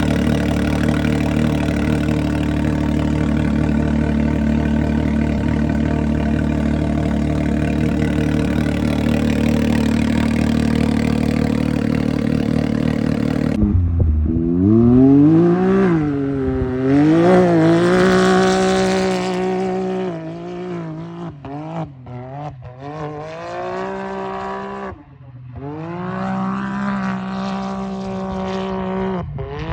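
Can-Am Maverick X3's turbocharged three-cylinder engine running loudly through a muffler-delete exhaust. It runs at a steady speed, then about halfway through it is revved up and down again and again.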